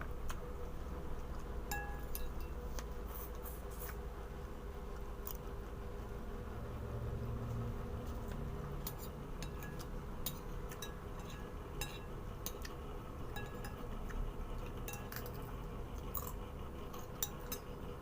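Scattered light clinks and taps of eating utensils against dishes during a meal, over a steady low background hum.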